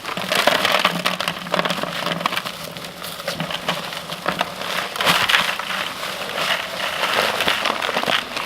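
Paper bag of cement mix being handled and opened: irregular crinkling and crackling with many small clicks, kept up throughout.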